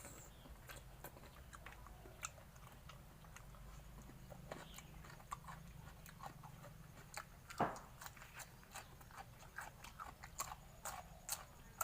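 Close-up mouth sounds of someone chewing and biting into fresh raw shrimp in a spicy fermented-fish dressing: many small wet clicks and crunches, with one louder crunch a little past the middle.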